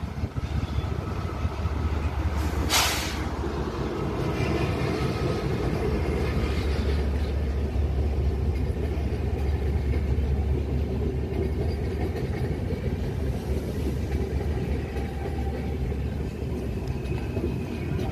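Diesel-hauled passenger train running past: a steady low rumble of the locomotive and the rolling coaches, with one short, sharp hiss about three seconds in.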